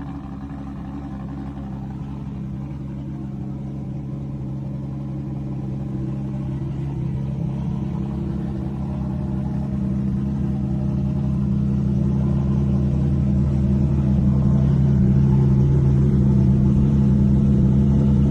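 Ferrari LaFerrari's V12 idling steadily just after a cold start, its note holding at one pitch while it grows gradually louder.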